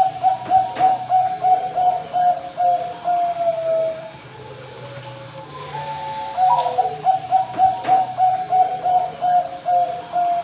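Zebra dove (perkutut) cooing: two long phrases of quick pulsed notes, each sliding down to a lower held note at the end, with a pause of about two seconds between them. A steady low hum lies underneath.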